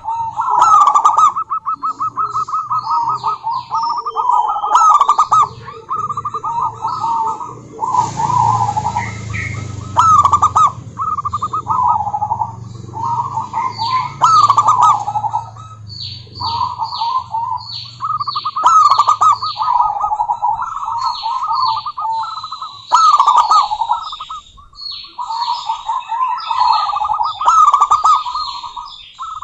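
Zebra dove (perkutut) cooing over and over in phrases of quick, rippling notes, with short gaps between phrases. Fainter, higher chirps come in mostly in the second half.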